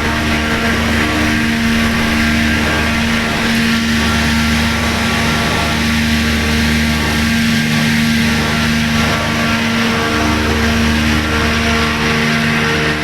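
An engine or machine running steadily, with a constant hum and a broad whirring noise, at an even loudness throughout.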